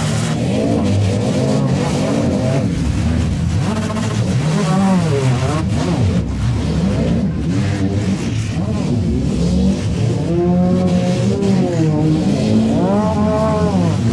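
Several demolition-derby compact cars' engines revving hard, their pitch rising and falling over and over as wheels spin in the mud. A couple of sharp knocks come through, one near the middle and one about two-thirds in.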